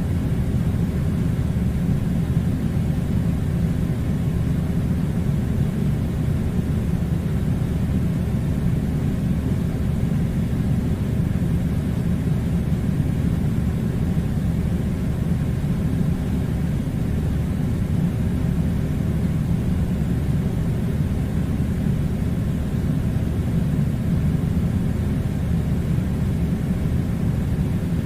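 Steady low rumbling noise that keeps an even level throughout, with no distinct events.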